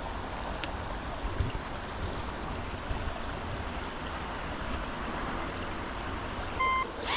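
Steady rush of river water, with a short electronic beep near the end.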